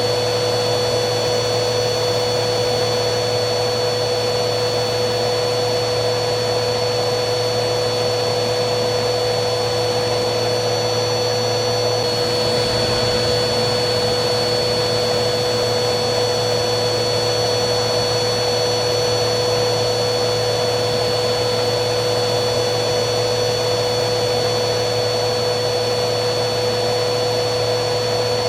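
Vacuum cleaner motor running steadily, a continuous rushing hum with a constant high whine.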